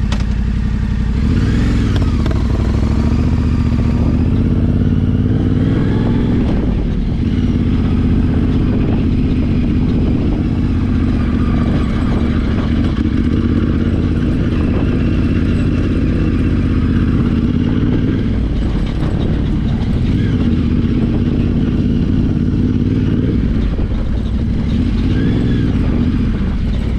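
Yamaha Ténéré 700's parallel-twin engine running steadily while the bike is ridden, its note swelling and easing a little near the start and again near the end.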